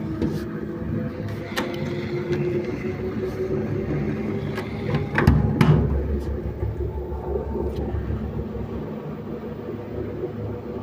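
Vehicle engine running, with scattered knocks and clicks and a loud low pulsing rumble about five seconds in. The owner cannot account for this knocking and rattling.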